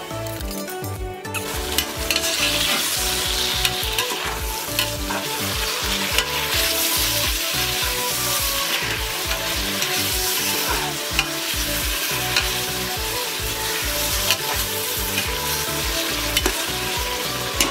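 Sliced tomatoes sizzling in hot oil in a pressure cooker with onions and whole spices, the sizzle swelling about a second and a half in as they hit the oil. A slotted metal spatula stirs and scrapes against the cooker, giving repeated sharp clicks over the sizzle.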